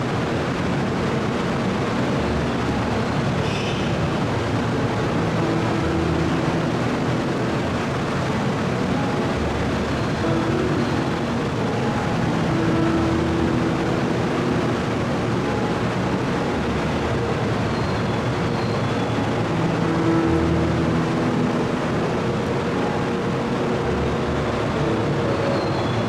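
Steady rumble and hiss of a Kyushu Shinkansen train, with faint humming tones that come and go.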